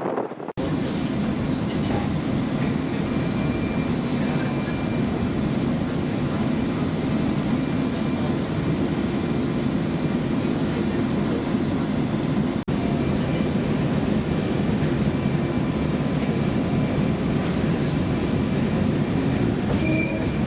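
Former JNR-type electric train (115 series) running along the line, a steady rumbling running noise with a momentary break about two-thirds of the way through.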